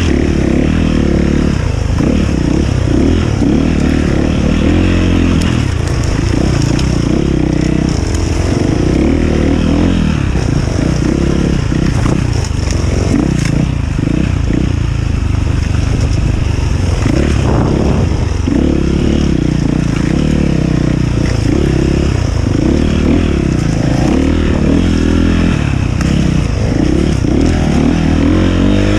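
Enduro dirt bike engine running continuously, its pitch rising and falling as the throttle is worked.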